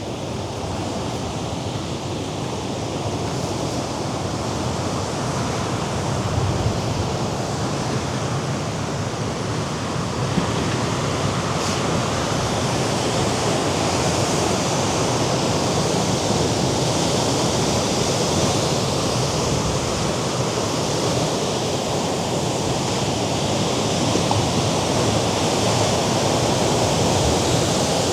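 Surf of the Mediterranean Sea breaking against the rocky cliffs below, a steady rushing wash of waves that grows gradually louder.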